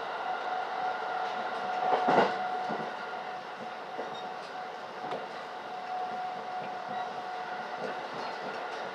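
Electric rapid train running at speed, heard from inside the car: steady running noise with a constant whine. The wheels clack over the track, loudest once about two seconds in, with lighter clicks after.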